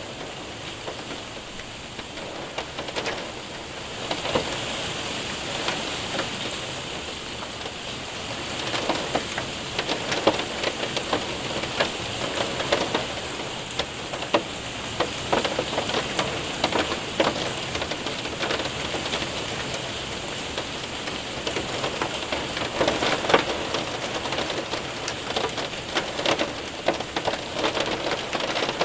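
Hail and rain hitting a window and roof: a steady hiss of rain laced with many sharp, irregular ticks of hailstones, growing louder and denser about four seconds in.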